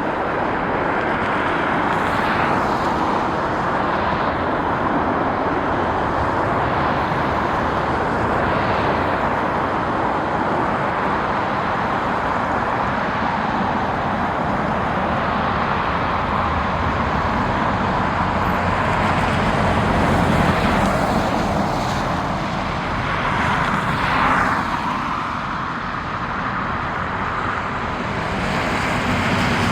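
Steady rushing vehicle engine noise, with a few brief swells.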